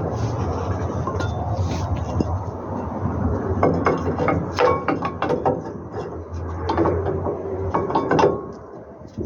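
Metal hand tools clinking and knocking against truck brake parts, in irregular clusters of sharp clicks over a steady low hum.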